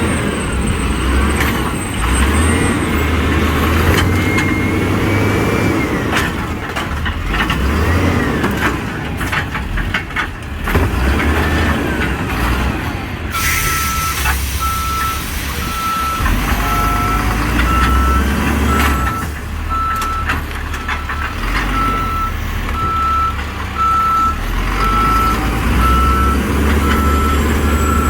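Old garbage truck running, its engine note rising and falling with scattered knocks. About halfway through, its reverse alarm starts beeping steadily, about once a second.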